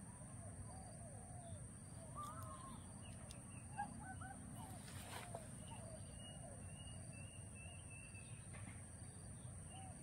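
Faint bird calls: many short, arching chirps overlapping one another, with a steady high-pitched whine behind them and a soft low background rumble.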